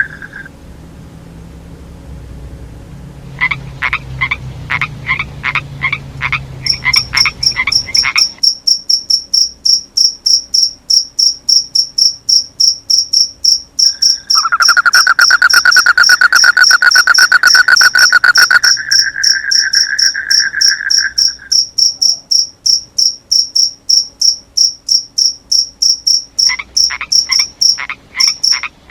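A chorus of frogs and crickets calling. A cricket chirps in rapid, even pulses, frogs call in short repeated bursts at the start and near the end, and a loud continuous trill runs for about seven seconds in the middle.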